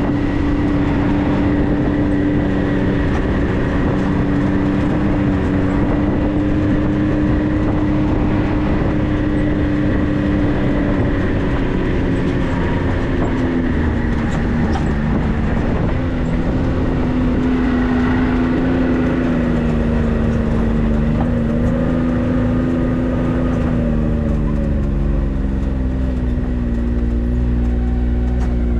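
Off-road 4x4's engine running steadily under way. Its pitch dips about halfway through, then falls lower near the end, settling into a deeper rumble as it slows.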